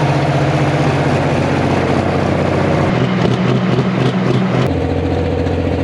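Compound-turbo alcohol pulling tractor engine running loud and steady at high revs. Its pitch shifts abruptly about three seconds in and again near five seconds.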